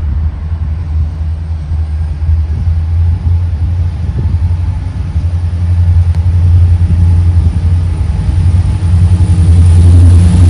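Diesel locomotive engine running with a deep, steady rumble that grows louder near the end.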